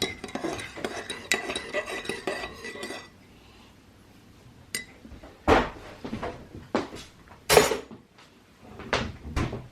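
Cutlery and dishes clinking and clattering for about three seconds, with a metallic ringing; after a pause, a few separate louder clatters follow.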